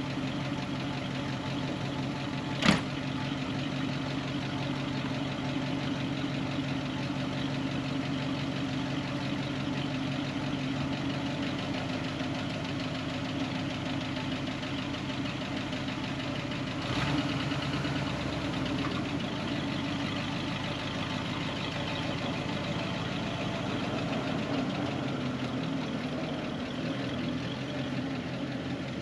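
A vehicle engine idling steadily, with one sharp bang about three seconds in that is the loudest sound, and a short change in the engine's low note a little past halfway.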